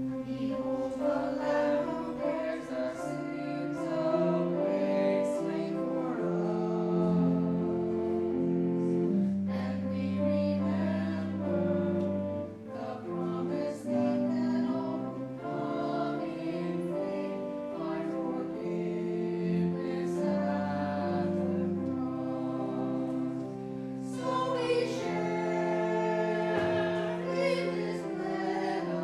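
Choral singing of a slow sacred piece over sustained accompanying chords.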